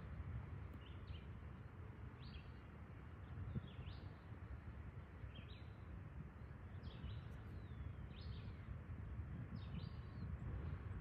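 Small birds chirping in short calls about once a second, with one longer falling call about seven seconds in, over a steady low rumble.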